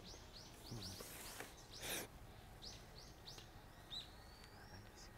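A bird calling outdoors in a rapid series of short, high chirps, about four a second, with a sliding whistle near the end. A brief rush of noise comes about two seconds in.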